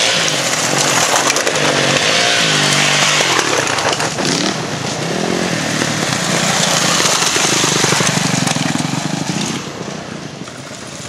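Dirt bike engines revving as several bikes ride past one after another, the pitch rising and falling with each bike.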